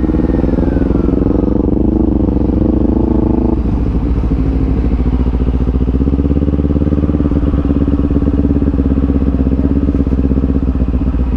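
Motorcycle engine running under way, picked up by the rider's helmet lavalier mic along with a low rumble. Its note changes abruptly about three and a half seconds in, then holds steady.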